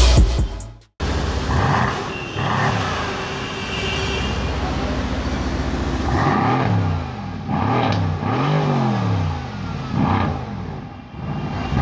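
The last half-second of electronic intro music cuts off. Then a Mercedes-AMG C63 S's 4.0-litre twin-turbo V8 idles and is revved repeatedly while stationary, each blip rising and falling in pitch, with a quick run of revs from about six to nine seconds in.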